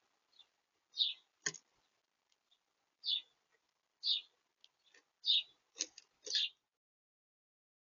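Small birds at a feeder: five short, high chirps spaced about a second apart, with a few sharp clicks among them.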